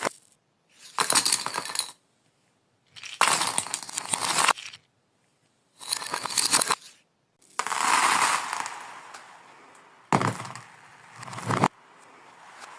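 Glass marbles rolling and clattering along a marble-run track, played in reverse, in a series of separate bursts about one to two seconds long with short silent breaks between them; several swell up and then stop abruptly.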